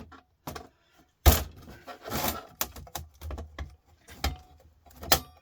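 Knocks, clicks and rattles of a desktop computer power supply's casing being handled and worked apart by hand, with one sharp knock about a second in and another near the end.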